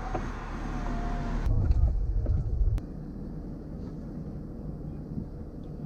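Car with its engine running: a low hum, rising to a louder low rumble about a second and a half in that lasts just over a second and ends with a sharp click.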